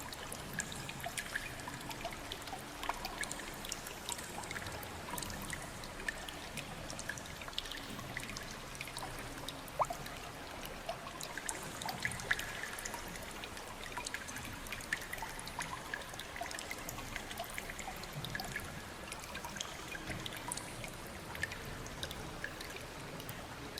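Water trickling steadily, with many small drips and splashes scattered throughout.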